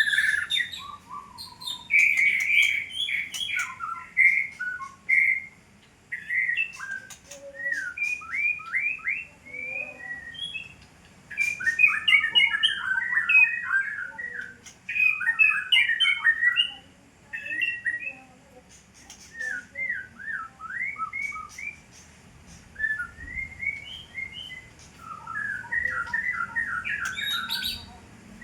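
White-rumped shama singing a long, varied song of fast whistled and chattering notes, delivered in phrases of a second or several with short pauses between them.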